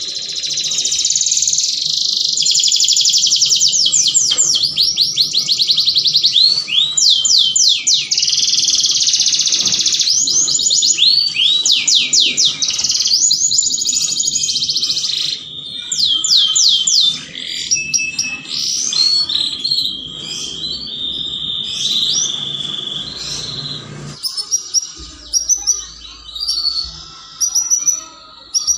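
Domestic canary singing a long, continuous song of rapid trills and repeated downward-sweeping notes, breaking into shorter separate phrases with pauses in the last few seconds.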